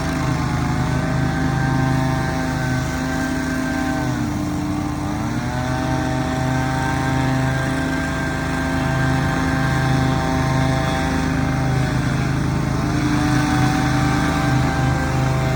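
Two gas-engine leaf blowers running together at high throttle. One engine's pitch drops and climbs back up twice, about four seconds in and again about twelve seconds in, while the other runs on steadily underneath.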